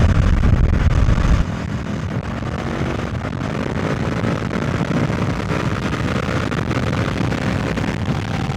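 Honda CB500F parallel-twin engine running through an SC Project Conic titanium slip-on exhaust while riding. A loud low rumble drops away sharply about a second and a half in, and the engine note then runs on steadily.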